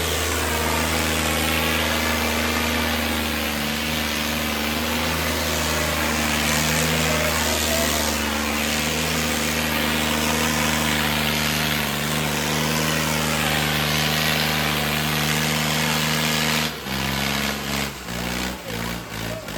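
Diesel tractor engines running hard and steady at high throttle, pulling against each other in a tractor tug-of-war. About three seconds before the end the steady sound breaks off into a choppy, pulsing sound.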